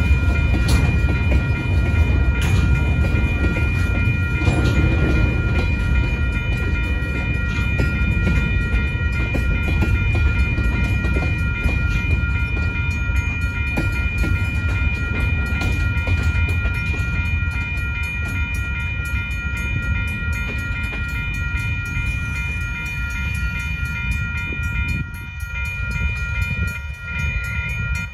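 Freight cars rolling across a grade crossing with a low rumble, while the crossing's Western-Cullen-Hayes electronic bell rings steadily over it. The rumble eases off about 25 seconds in as the last car clears, and the bell keeps ringing.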